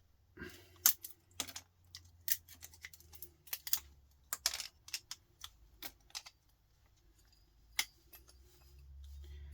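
Irregular sharp clicks and taps of hand tools against small metal parts and a circuit board while components are pried off a power supply, the loudest about a second in.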